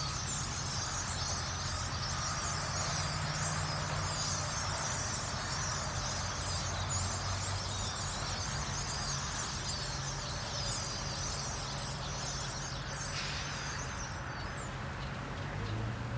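Dense chatter of many birds calling at once, a flock's overlapping chirps, over a steady low hum; the high chatter thins out near the end.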